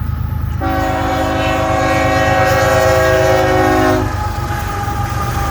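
Diesel freight locomotive's air horn sounding one chord-like blast of about three seconds, cutting off sharply, over the steady low rumble of the passing train. A horn blast like this is the locomotive's warning signal for the road crossing.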